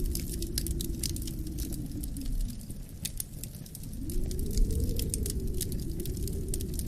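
Wood fire crackling, with irregular sharp pops and snaps, over a low wind that rises and falls. A gust swells about four seconds in.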